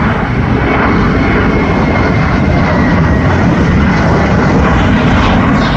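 Loud, steady jet airliner engine noise close by, with a faint whine that slowly falls in pitch in the middle.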